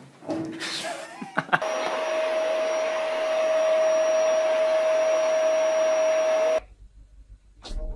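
A small electric motor runs with a steady whir and a constant hum tone, starting just after a couple of knocks and cutting off abruptly after about five seconds.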